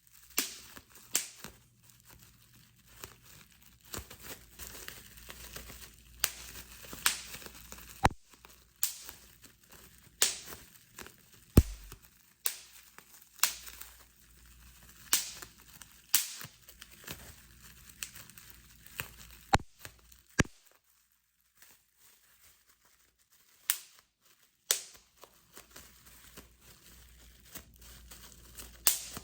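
Bubble wrap being popped, sharp single pops about once a second with the plastic crinkling between them; a short pause about two-thirds of the way in.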